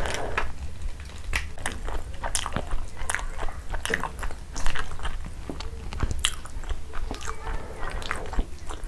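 Close-miked chewing of a mouthful of rice and chicken curry: wet mouth smacks and clicks at an irregular pace, one louder smack near the middle.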